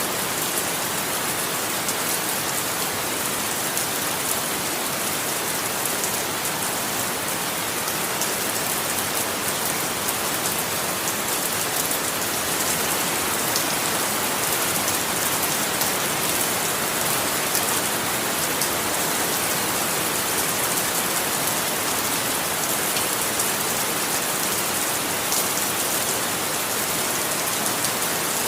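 Steady rain falling and pattering on a surface, an even hiss with fine drop crackle and no thunder.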